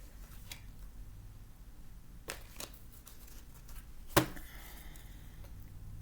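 Tarot or oracle cards being handled and shuffled: several short sharp snaps of card against card, the loudest about four seconds in.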